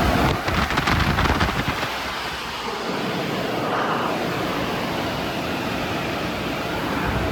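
Sonny's mini-tunnel car wash equipment running, a steady rushing noise. A rapid flapping pulse runs through the first second or two, then settles.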